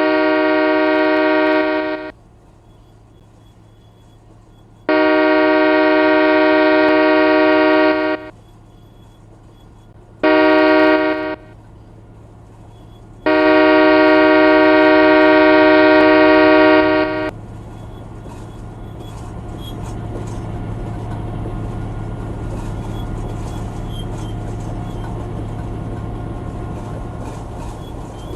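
Freight locomotive air horn sounding the grade-crossing signal: long, long, short, long. The train's rumble then builds as it approaches and rolls by.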